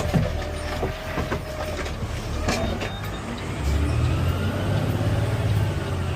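CNG Peterbilt 520 automated side-loader garbage truck running, its low rumble growing louder a little over halfway through. A sharp clank comes right at the start and another about two and a half seconds in, and a faint rising whine runs under the second half.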